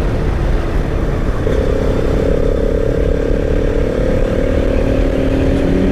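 Motorcycle running at a steady cruise on the road, under a dense low rumble. A steady engine drone comes in about one and a half seconds in and holds, sagging slightly in pitch.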